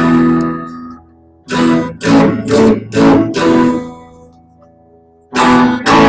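Newly strung Fender Telecaster electric guitar strummed in a test play to check the pickup balance. One chord rings out and fades, a quick run of about five strums follows and is left to ring, and the strumming starts again near the end.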